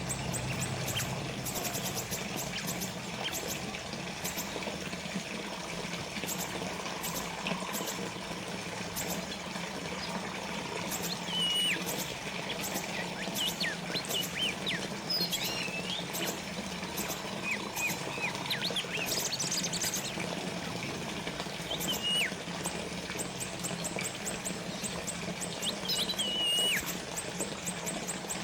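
Water trickling and splashing steadily, as from a small fountain. Through the second half a bird chirps intermittently in short, sweeping calls.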